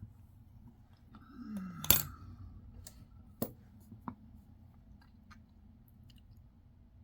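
Handling noise from coins being sorted at a desk: a short scrape ending in a sharp click about two seconds in, then two lighter clicks over the next two seconds.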